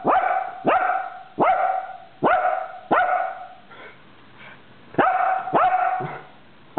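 Seagull calling, a run of loud calls that each swoop up in pitch and then hold, about one every 0.7 seconds. They pause for about a second and a half midway, then start again.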